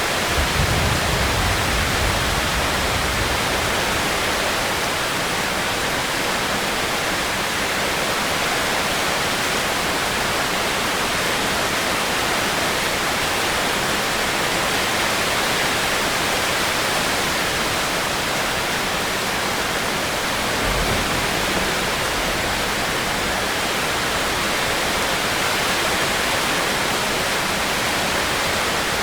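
Steady rain, an even hiss, with a brief low rumble near the start and another about two-thirds of the way through.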